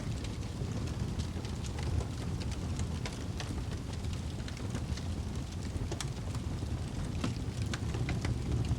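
Wood fire burning in a fireplace: a steady low rumble of the flames with frequent sharp, irregular crackles and pops from the burning wood, coming thicker near the end.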